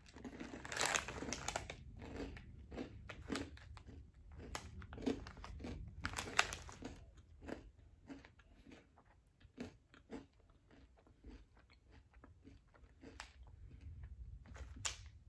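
A person chewing chocolate-covered Japanese rice crackers, crisp crunches with the mouth close to the microphone. The crunches come thick and fast with the first bites, the loudest about a second in and again at about six seconds, then thin out to occasional crackles as the mouthful goes down.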